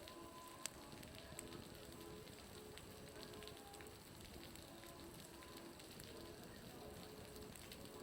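Faint, steady patter of meltwater dripping off a building's roof, with scattered sharp clicks, the clearest about half a second in. It sounds much like a crackling bonfire, and a bonfire is burning close by.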